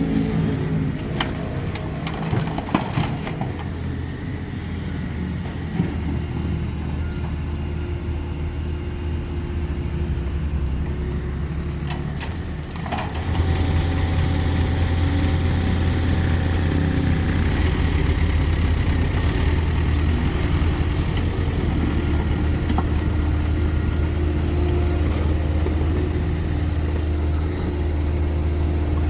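Caterpillar 305.5E2 mini excavator's diesel engine running as it digs and loads soil, with a few sharp knocks in the first three seconds and again about twelve seconds in. The engine gets louder and heavier about thirteen seconds in, as if under more hydraulic load.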